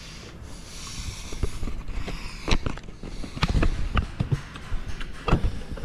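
Irregular knocks and clanks of tools and parts being handled during repair work, several sharp strikes between about two and five and a half seconds in.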